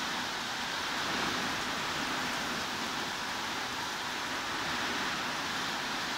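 Steady heavy rain, a dense even hiss with no single drops standing out.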